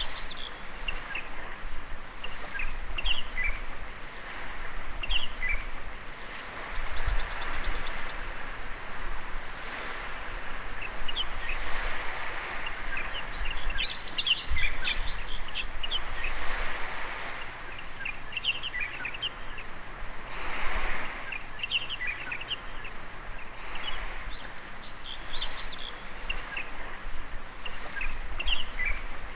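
Small waves washing onto a beach, swelling and fading every few seconds, with birds chirping on and off, including a quick run of high chirps about seven seconds in.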